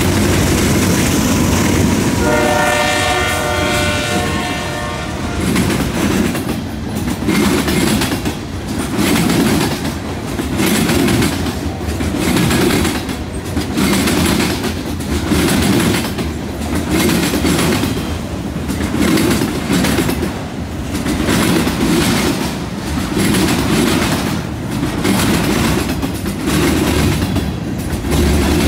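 CN freight train passing close by: the diesel locomotives, a GE C44-9W in the lead, rumble past at first, and the horn sounds a chord for about three seconds shortly after. Then the covered hopper cars roll by, their wheels clacking in a steady rhythm about every second and a half.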